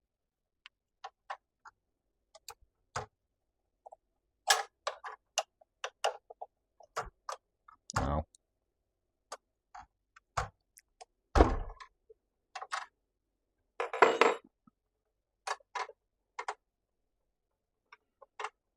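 Irregular clicks, taps and knocks of hands working parts on a miter saw, with a few heavier thumps, the loudest about eleven and a half seconds in.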